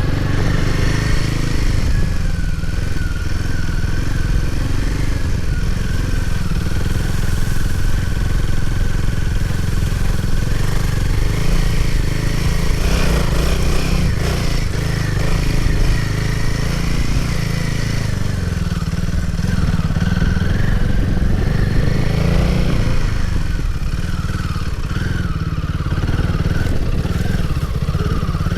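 Motorcycle engine running steadily as the bike is ridden off-road, a constant low drone.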